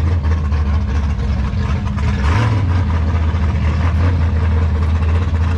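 A loud car engine idling steadily close by, with a brief small rev about two seconds in.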